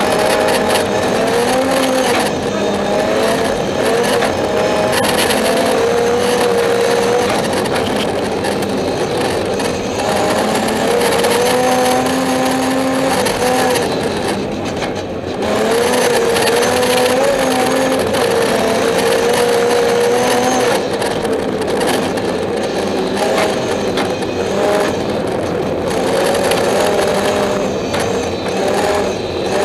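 BMW 325i straight-six engine at full rally pace, heard from inside the cabin. The revs climb and drop again and again through gear changes, with a brief lift off the throttle about halfway through. A steady hiss of tyres on the snowy road runs underneath.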